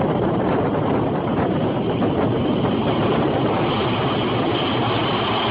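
Turboprop aircraft engines and propellers running with a steady, loud drone.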